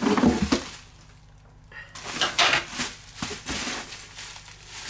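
Hard plastic body parts and their packaging being handled: a brief clatter, then irregular rustling and light clicking of plastic pieces.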